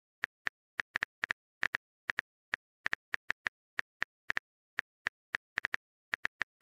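Phone keyboard typing sound effect: an irregular run of short, light clicks, about three to four a second, some in quick pairs.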